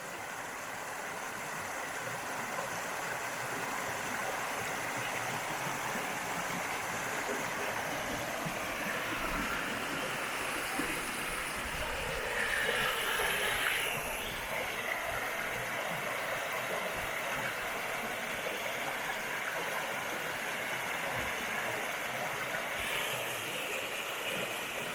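River water rushing and splashing over rocks in a steady wash, a little louder for a couple of seconds about halfway through.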